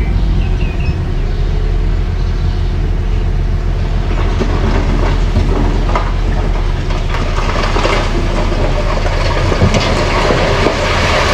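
Mini bulldozer's engine running with its tracks clattering; the clatter grows louder and sharper in the second half.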